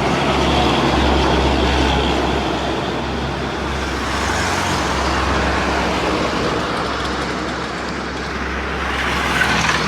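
Mitsubishi Canter truck's diesel engine running steadily amid road noise, with a constant low hum.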